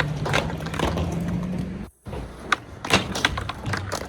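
Skateboard wheels rolling with a steady low hum, cut off abruptly just before halfway, followed by several sharp clacks of a skateboard deck and wheels striking the ground.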